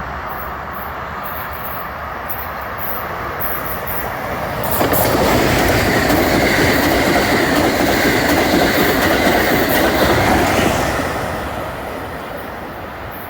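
Amtrak Acela high-speed trainset passing through the station at speed. The rush of wheels on rail swells suddenly about five seconds in, stays loud for about six seconds, then fades.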